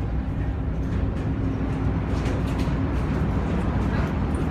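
Steady low engine rumble of a vehicle, with a constant hum over it.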